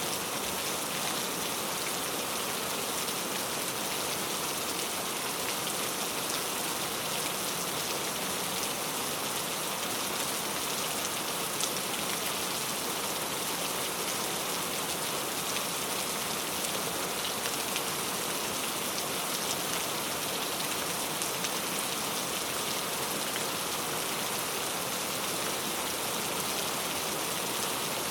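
Steady rain falling, an even hiss of drops on a surface with the odd louder drop ticking through.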